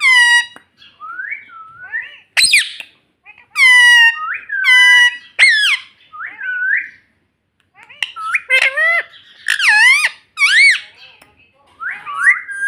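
Ringneck parrot calling: a run of loud, high-pitched squawks and whistle-like calls, each bending up and down in pitch, with short gaps between them.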